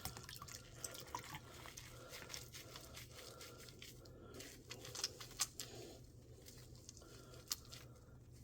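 Faint small splashes, drips and squishing as a doll's hair is worked by hand in a bowl of soapy water, with scattered light clicks; the louder ones come about five seconds in and near the end.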